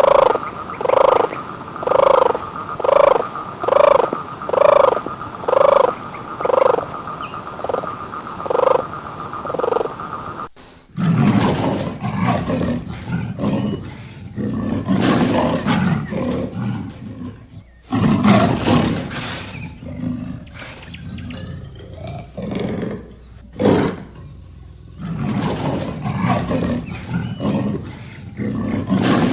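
Animal calls: first a pitched call repeated about once a second, about eleven times. It stops suddenly near the ten-second mark, and a large animal's rough roars and growls follow, coming in bouts with short pauses.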